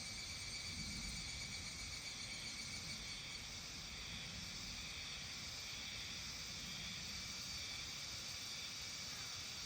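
Steady evening chorus of insects in a rural soundscape: an even high hiss with a few faint held tones, over a low background rumble.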